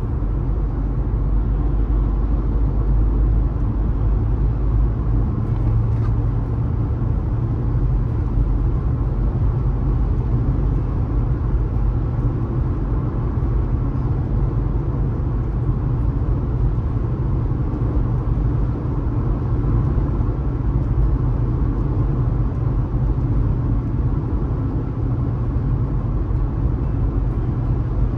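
Steady road and engine noise of a car cruising at highway speed: a constant low rumble with no distinct events.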